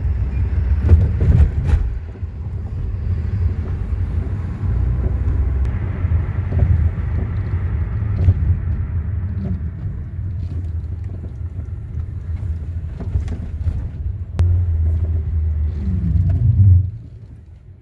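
Kia Soul rolling with a low grinding rumble from the brakes, which keeps grinding even under light braking. The rumble drops away near the end.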